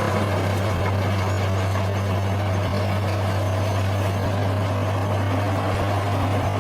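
Bulldozer's diesel engine running steadily with an even, low hum.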